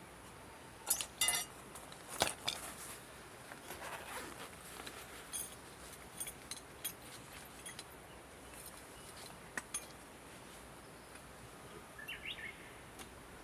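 Irregular sharp clicks and light clinks, several close together in the first few seconds and then sparser, with a short bird chirp about twelve seconds in.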